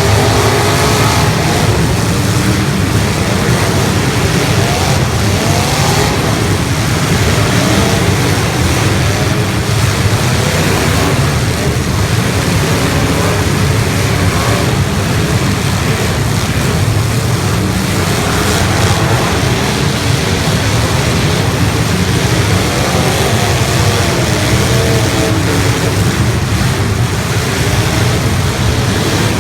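Many 1980s stock car engines running and revving together, loud and continuous.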